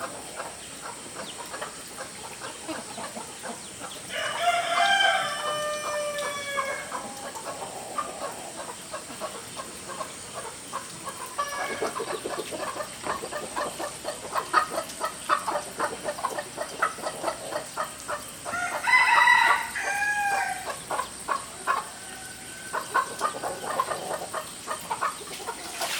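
A rooster crowing twice, once about four seconds in and again near nineteen seconds, each crow a drawn-out call that falls away at the end. Between and after the crows comes a long run of rapid ticks.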